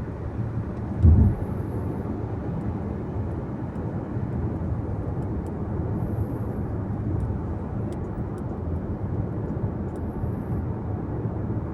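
Car road noise while driving: a steady low rumble of tyres and engine, with a single low thump about a second in.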